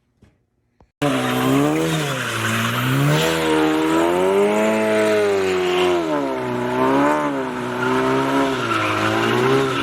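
Race car engine revving, its pitch rising and falling over and over, cutting in suddenly about a second in after near silence.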